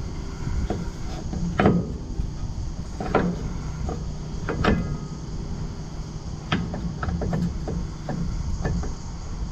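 Metal parts and tools clanking and knocking while a drive shaft is fitted and bolted in under a vehicle. There is a separate knock every second or two, each with a short ring after it.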